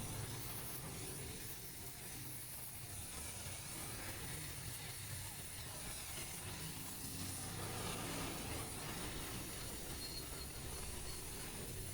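Welding equipment brazing cast iron with brass wire: a steady hiss over a low hum.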